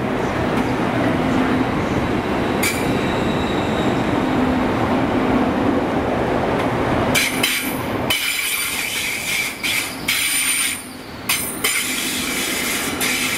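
A GWR Class 800 train moving past along the platform: a steady rolling rumble with a low hum, then from about seven seconds in a high-pitched wheel squeal from the passing wheels, broken by short gaps, until the end of the train passes.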